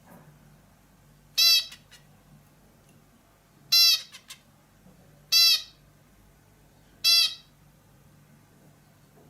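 Bulbul giving four short, harsh, nasal calls, spaced about one and a half to two seconds apart.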